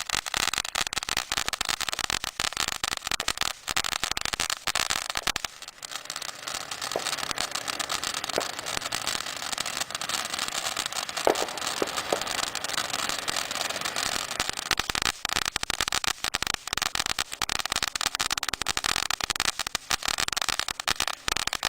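Ground fireworks burning: a steady hiss packed with rapid crackling that dips briefly about six seconds in.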